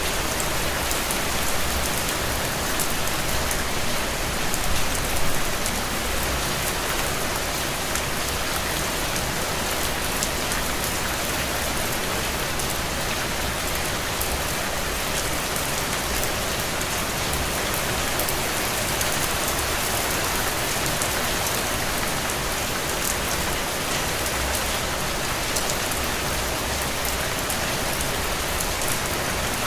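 Steady rain falling on a window, an even hiss with fine scattered drop ticks and a few low swells about five seconds in.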